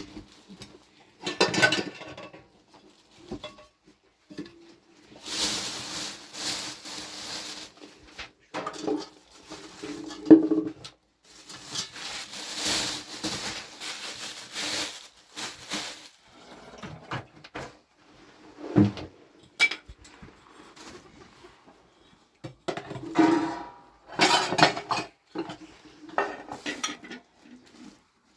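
Dishes and cutlery clinking and knocking in irregular bursts, with a few longer hissing or scraping stretches in between.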